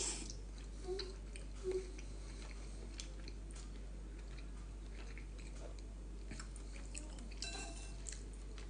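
Quiet chewing of a mouthful of soup, with faint mouth clicks and a brief clink near the end.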